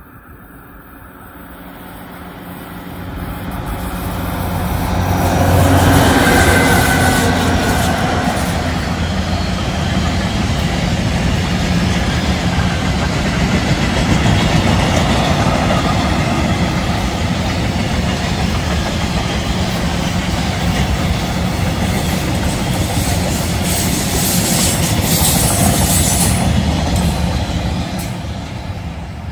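Diesel-hauled freight train passing close by. The locomotive's engine grows louder and is loudest about six seconds in. A long run of loaded open wagons follows, their wheels rumbling and clattering steadily on the rails, and the sound fades near the end as the last wagons go by.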